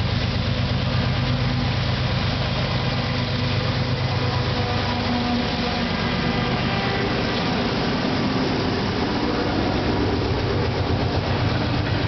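Diesel-electric locomotives of a Canadian Pacific freight train passing close by, engines running steadily, with the freight cars starting to roll past. The engine tones shift in pitch from about four seconds in.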